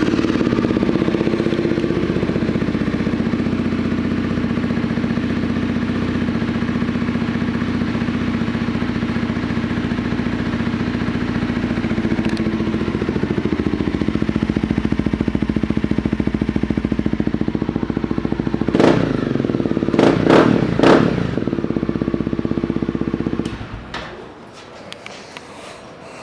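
Honda CBR300R single-cylinder engine with an aftermarket exhaust, idling steadily just after being started. It is blipped with a few quick revs near the end, then switched off.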